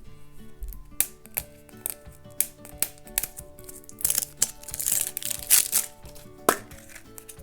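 A surprise egg being unwrapped and opened by hand: sharp plastic clicks and crinkling wrapper, loudest in the middle, over light acoustic guitar background music.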